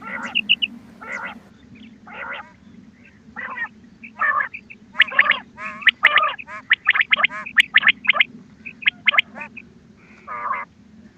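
Recorded quail calls played as a hunting lure: short, rough, warbling calls, about one a second at first, then a quick dense run in the middle, over a steady low hum.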